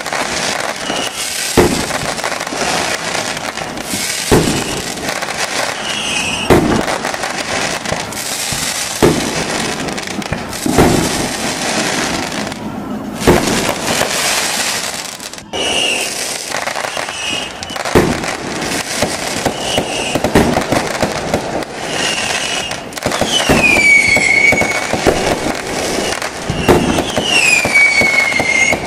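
Fireworks display: sharp bangs of bursting shells every second or two over continuous crackling, with a few falling whistles near the end.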